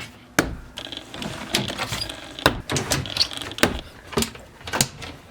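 Overhead cabinet doors in an old travel trailer being opened and handled: a series of sharp clicks and knocks, about one every half second to second.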